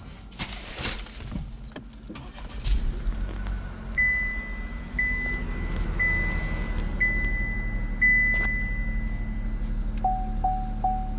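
A 2025 Chevrolet Trax's 1.2-litre turbo three-cylinder starts a little under three seconds in and settles into a steady low idle. Over it come five evenly spaced high warning chimes about a second apart, then four quicker, lower chimes near the end. A short rustle like jangling keys comes just before the start.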